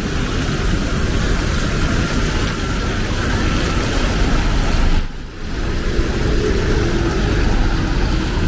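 Rain and city street traffic as a steady wash of noise, with a brief sudden dip about five seconds in.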